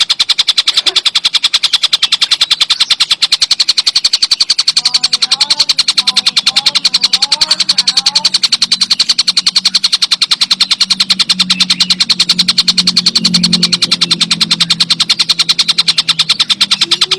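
Tengkek buto song for bird training: a continuous rapid, even rattle of sharp high-pitched notes, about ten a second. Faint short rising chirps join it in the middle.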